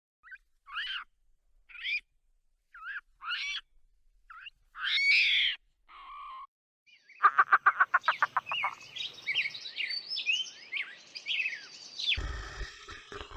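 Birds calling: short separate calls a second or so apart, then a fast rattling trill about seven seconds in, followed by a busy run of chirps and tweets.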